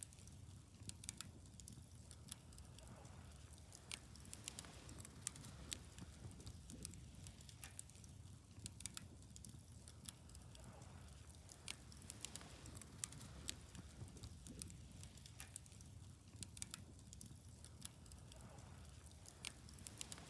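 Wood bonfire crackling faintly, with irregular sharp pops and snaps over a steady low background.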